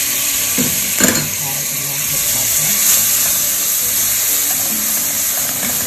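Chopped parsley, green bell pepper and garlic sizzling in melted butter in a pan as they are stirred with a slotted spatula: a steady hiss, with a knock about a second in.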